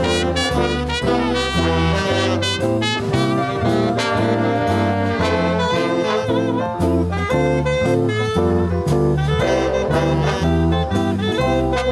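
Swing band music with saxophones and brass, playing continuously without vocals.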